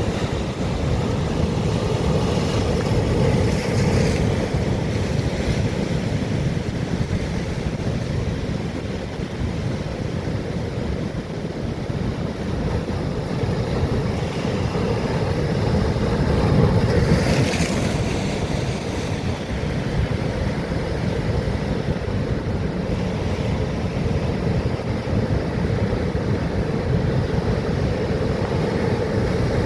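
Atlantic waves breaking on rocks: a steady heavy surf rumble and wash, with one louder crash of spray a little over halfway through. Wind rumbles on the microphone throughout.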